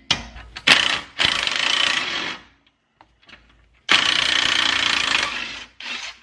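A handheld power tool runs in two bursts, a shorter one then a longer one, after a couple of sharp clicks.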